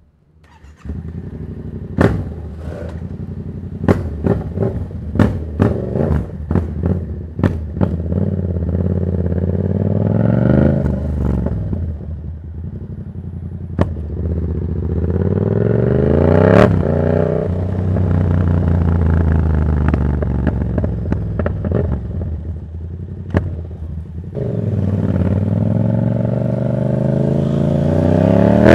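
Yamaha MT-07 parallel-twin engine through an open Black Widow exhaust with the dB killer removed, running loud. It comes in about a second in, and over the next few seconds gives a run of sharp cracks and pops under quick throttle blips. It then accelerates and slows repeatedly, its pitch climbing through the gears and dropping on deceleration, and picks up again near the end.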